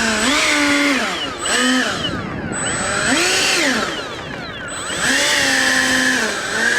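Electric ducted-fan motors of an RC jet run up and back down in about four short throttle bursts, a whine that rises, holds and falls each time, with the last run the longest. It sounds like a ground test of the motors after a hard landing.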